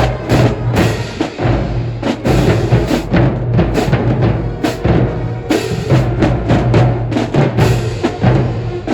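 Marching band drumline playing a steady, driving beat on bass drums and snares.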